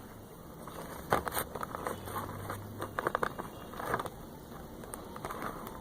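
Sticky flour-and-toothpaste slime dough being worked in a bowl: short clusters of small clicks and crackles, a few times over.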